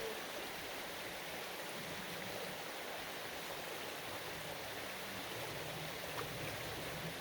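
Steady rush of a flowing stream or river current.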